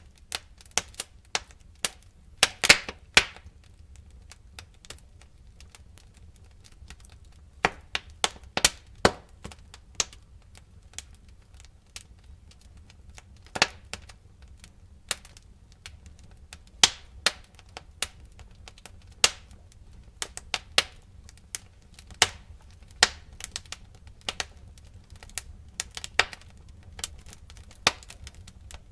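Fire crackling: irregular sharp pops and snaps, some in quick clusters, over a faint low rumble.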